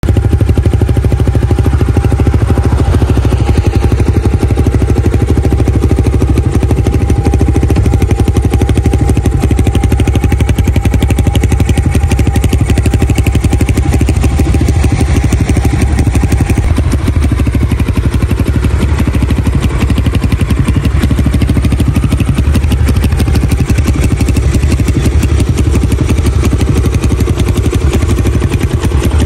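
Leramotors Thunder 250 pit bike's single-cylinder four-stroke Zongshen CB250 engine idling steadily through its tuned exhaust.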